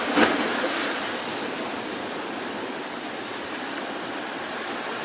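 Sea surf washing on the shore: a steady hiss of waves, briefly a little louder just after the start.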